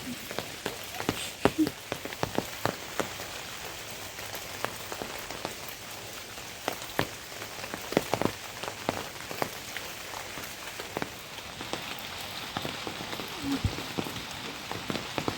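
Steady rain falling, with many heavy drops tapping a surface at irregular moments.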